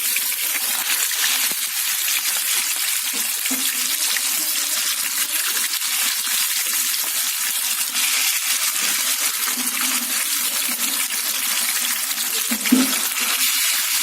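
Chicken lollipops deep-frying in hot oil, a steady sizzle with dense crackling. A single brief knock comes near the end.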